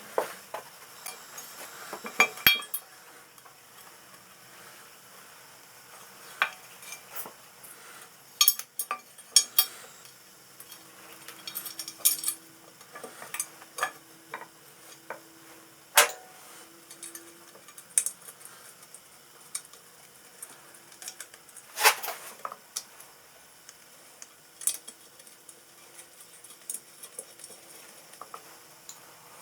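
Irregular light metallic clinks and taps of tools and small metal parts being handled on a workbench.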